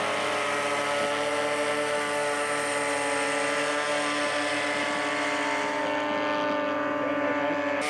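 Radio-controlled scale model airplane engines running in flight, a steady drone at several pitches.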